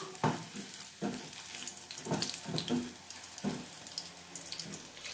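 Battered sweet potato sticks sizzling in hot oil in a wok, with a wooden spatula scraping and knocking against the pan several times as they are stirred.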